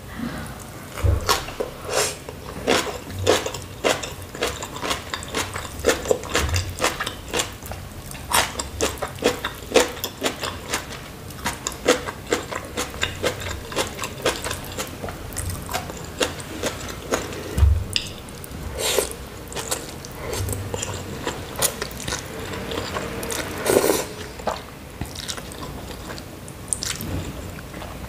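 Close-miked eating sounds: biting into and chewing kimchi with many quick wet, crunchy clicks, then noodles being slurped in later on.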